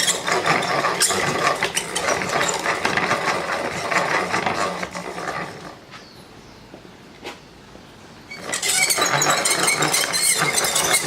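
Square wooden stock being turned and fed through the cutter head of a dowel maker, the blade shaving it round with a rapid rattling chatter. The cutting stops for about two and a half seconds midway, with a single click, then starts again.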